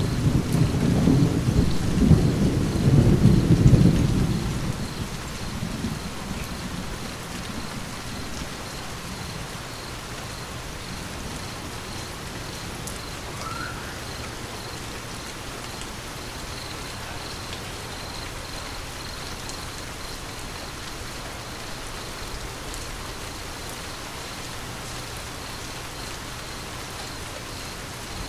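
A thunderclap's low rumble, loud in the first few seconds, dies away by about eight seconds in. Steady rainfall continues under it and after it.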